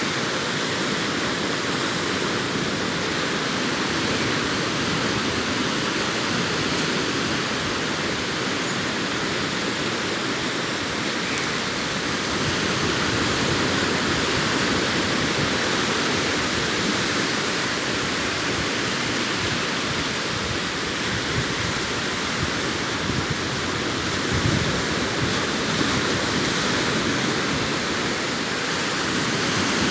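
Sea waves washing onto a beach: a steady rushing surf noise that swells and eases gently. There is a brief low bump about three-quarters of the way in.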